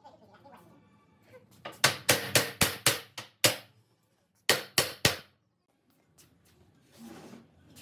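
Sharp knocks on wood in two runs: about seven quick knocks, a short pause, then four more.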